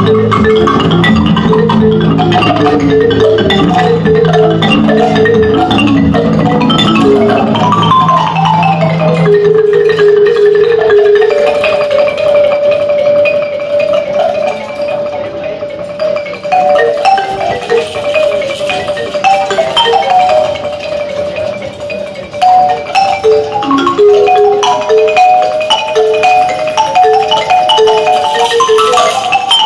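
Mallet percussion music led by a marimba. Low rolled notes are held densely for the first eight seconds or so; after a short pause, a lighter melody of short repeated notes takes over higher up.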